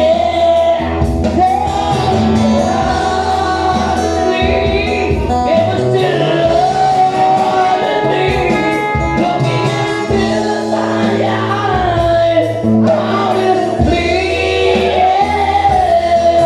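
Live band playing a rock ballad, with a singer's voice carrying the melody over held chords and bass.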